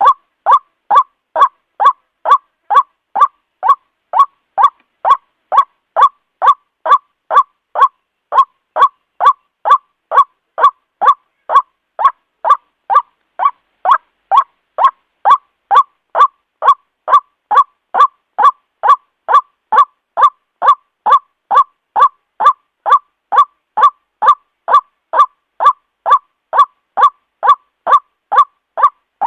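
White-breasted waterhen giving its repeated 'ruak' call: short, even notes about twice a second with clean gaps between them. This is a recorded lure call used to draw waterhens in for trapping.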